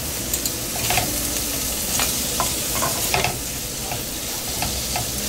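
Pigeon peas and sofrito sizzling in a metal pot while a slotted metal spoon stirs them, with short clicks and scrapes of the spoon against the pot.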